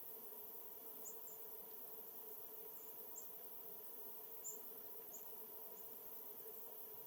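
Faint, short, high-pitched chips from small birds, about six of them scattered irregularly, over a steady low background hum.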